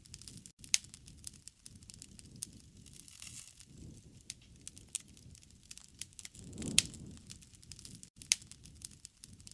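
Wood fire crackling, with sharp pops scattered irregularly and a soft low rush of flame swelling twice, around four and seven seconds in, the loudest pop coming with the second swell.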